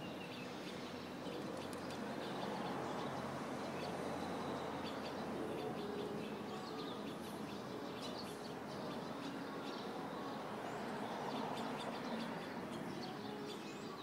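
Small birds chirping repeatedly in short calls over a steady background noise.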